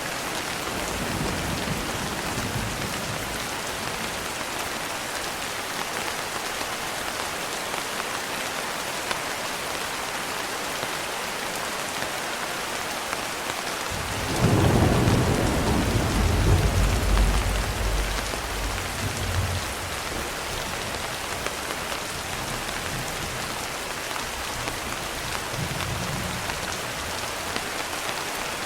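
Steady rain falling throughout. About halfway through, a thunder rumble starts suddenly, rolls loudly for a few seconds and fades away, with fainter distant rumbles near the start and near the end.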